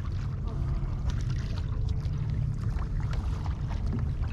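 Water splashing and trickling around a kayak, over a steady low rumble.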